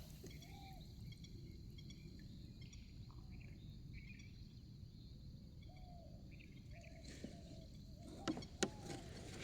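Faint low background noise with scattered short chirping calls, and a few sharp clicks near the end.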